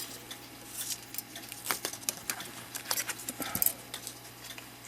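Brass parts of a clock movement being handled and taken off: scattered light metallic clicks and taps, irregular and a few to the second.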